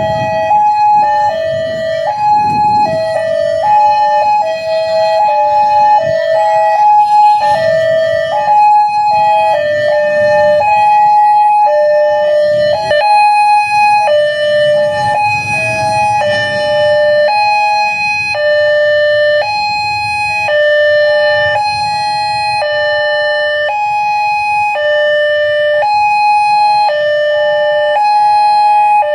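Electronic warning alarm of a railway level crossing sounding continuously, a loud two-tone signal alternating between a lower and a higher pitch in a repeating pattern, over a low rumble of traffic.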